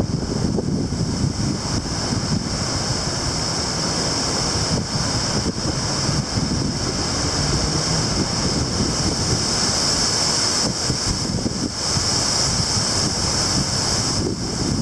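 Strong gusty wind buffeting the microphone: a continuous, fluttering low rumble, with a steady high-pitched hiss above it.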